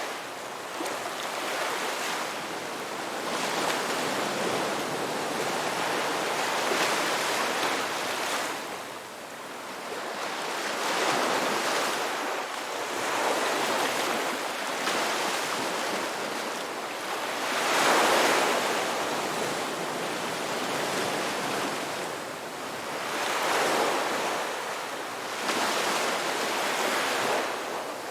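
Ocean waves breaking and washing up on a beach, a steady surf that swells and ebbs every few seconds, loudest about two-thirds of the way in.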